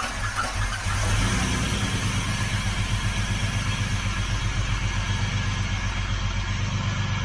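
BMW E36 engine idling through a freshly built custom stainless-steel exhaust, a steady deep rapid pulsing that picks up slightly about a second in. It sounds like a monster truck.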